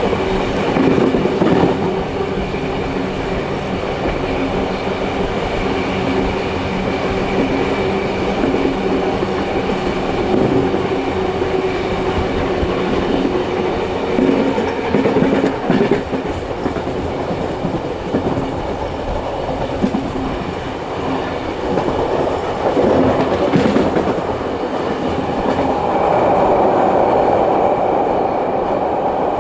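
Running sound of a steam-hauled passenger train heard on board: a steady rumble of the carriages with clicks of the wheels over rail joints, behind steam locomotives 3526 and 3265.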